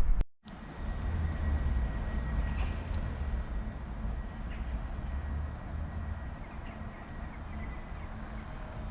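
Just after a brief cut to silence, a train rumbles past, heaviest for the first few seconds and then easing off, with a faint steady whine above it.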